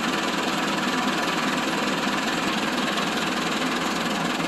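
Massey Ferguson 385 tractor's diesel engine running steadily.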